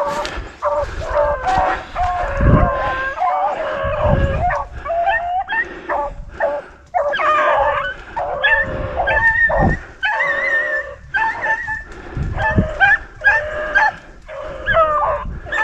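A pack of beagles baying, several voices overlapping in long drawn-out calls as the hounds work a rabbit's scent. A few deep low thumps come through between the calls.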